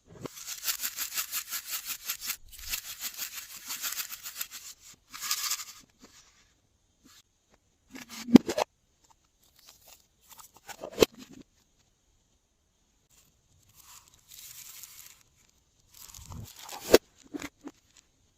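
Glossy slime and plastic piping bags being handled: a long run of fine, wet crackling for the first few seconds, then scattered shorter crackles and a few sharp clicks and taps.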